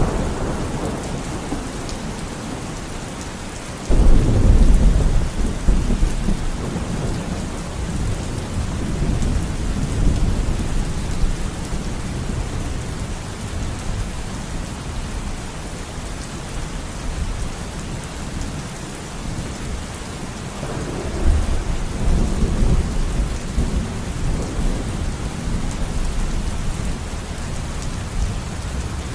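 Steady rain with two rolls of thunder. The first breaks suddenly about four seconds in and rumbles away over several seconds; a second, softer roll comes about two-thirds of the way through.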